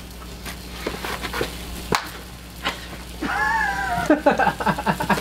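Food frying on an electric space heater: faint sizzling with scattered sharp pops and clicks over a steady low hum. A short hummed or sung note, gliding in pitch, comes about three seconds in.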